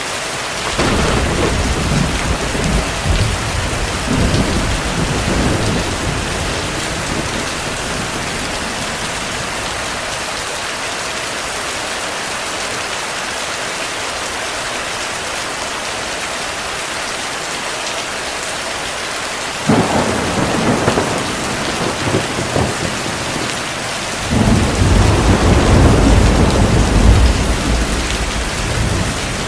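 Steady heavy rain with thunder rolling three times: one about a second in, one that starts suddenly near the twentieth second, and the loudest, deepest rumble near the end.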